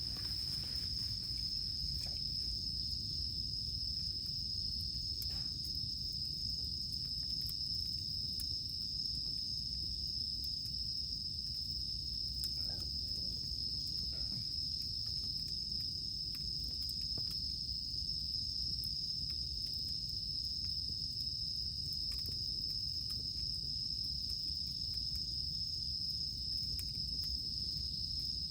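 Cicadas droning, a steady unbroken high-pitched buzz, over a campfire that gives a few faint crackles and pops.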